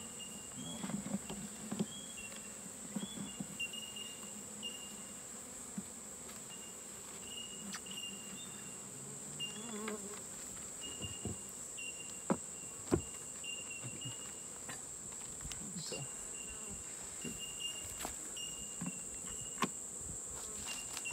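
Honeybees buzzing around an open hive, with a wavering hum in the first couple of seconds. A steady high-pitched insect trill runs underneath, and now and then there is a sharp click or knock.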